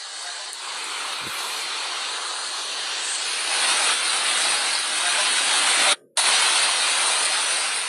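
Steady rushing hiss of water, breaking off for an instant about six seconds in.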